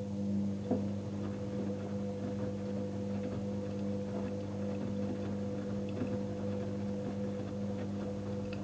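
Electrolux washing machine's drum motor running at a steady speed to turn the drum during a wash, a constant hum with a few light knocks from inside the drum.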